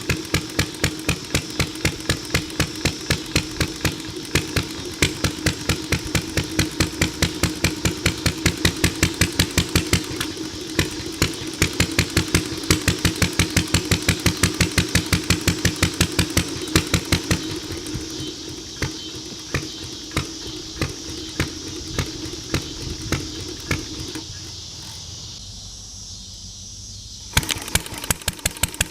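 Antique Ideal Model V single-cylinder upright engine with an atmospheric intake valve running, with an even exhaust beat of about three firings a second. Past the middle the firings grow sparse and weak and die away, which fits the engine's finicky carburettor and the cool weather that the owners blame. Near the end the beat comes back suddenly.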